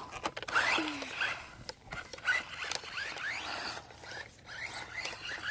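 Radio-controlled toy truck driving over a rough, gritty road: its motor whines up in many short rising bursts over a rasping crunch of the tyres, with scattered clicks.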